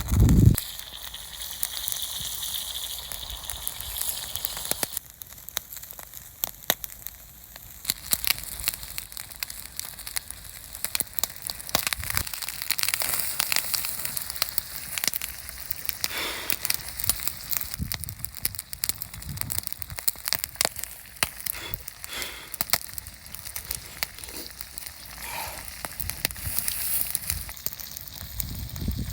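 Campfire crackling, with many irregular sharp pops over a steady hiss. There is a brief low thump right at the start.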